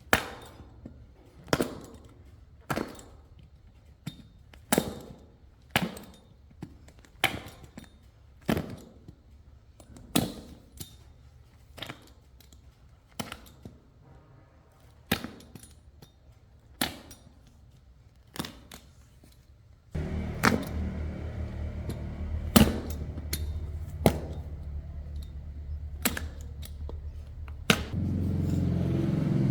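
Repeated sharp knocks or taps, one every second or so at an uneven pace. About two-thirds of the way through, a steady low hum starts under them and gets louder near the end.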